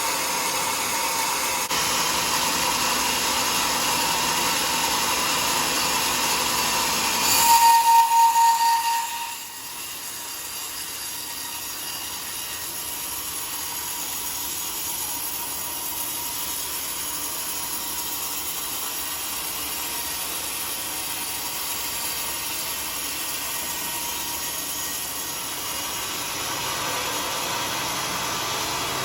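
Homemade sawmill cutting through a teak log with a steady whine. About seven seconds in it grows louder, with a ringing tone, for about two seconds, then settles to a quieter steady running.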